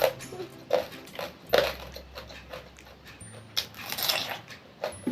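Close-miked eating sounds of fried catfish being chewed: irregular wet chewing and lip smacking, with a few sharper bites scattered through.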